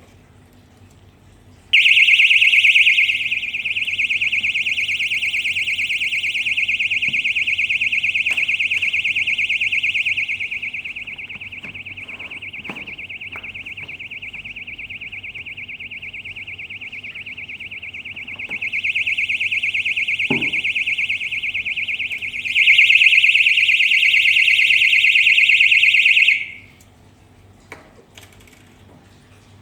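High-pitched electronic alarm buzzer sounding one continuous tone for about 25 seconds. Its loudness drops for a stretch in the middle and rises again, loudest at the start and near the end, then it cuts off suddenly.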